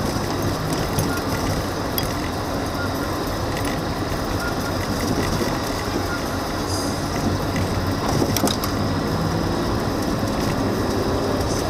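A car driving slowly over a rough unpaved road, its tyres crunching over gravel and debris with scattered small knocks, under a steady engine and road noise.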